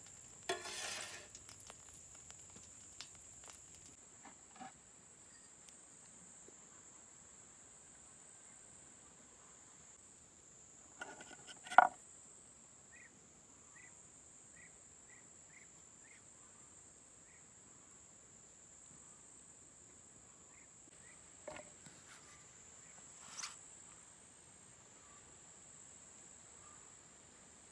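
Steady, high-pitched insect chirring in the background, with a few short knocks and clatters from cooking handling; the loudest is about twelve seconds in.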